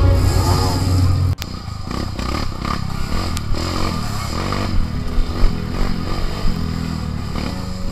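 Music that cuts off abruptly about a second and a half in, then an off-road trail motorcycle's engine running, its pitch rising and falling.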